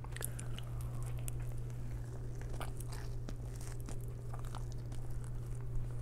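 A person biting into a soft meatball sub and chewing it close to a clip-on mic: faint wet mouth clicks and short chewing noises, over a steady low hum.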